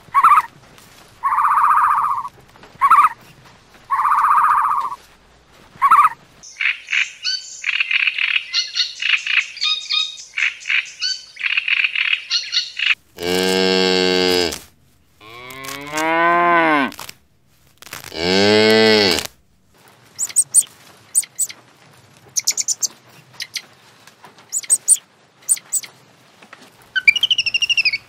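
A cow mooing three times, each moo long and loud, in the middle of a run of shorter animal calls and chirps; near the end a high call falls in pitch.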